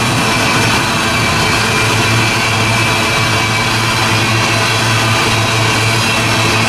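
Diesel locomotive engine running steadily, a loud even low hum with no change in speed.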